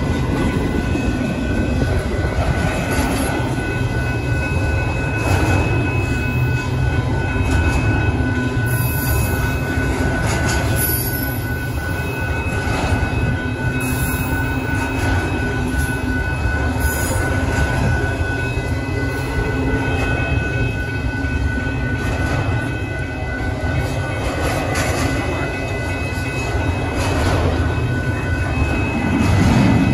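Double-stack intermodal freight cars of a Union Pacific train rolling steadily past at a grade crossing: a continuous rumble of steel wheels on rail, with steady high-pitched tones held over it.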